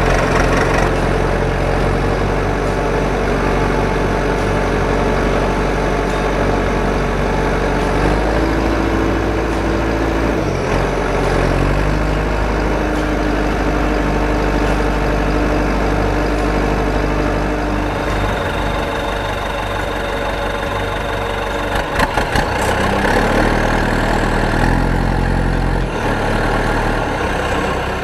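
An engine running steadily at idle, its note shifting a few times.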